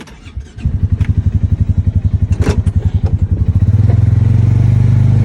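A small vehicle engine starts up about a second in after a knock, running with an even, pulsing beat, then grows louder and steadier near the end.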